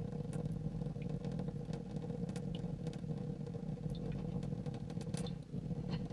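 Cat purring steadily and loudly, a rough rapid flutter, with a few small clicks of water dripping over it; the purr dips briefly near the end.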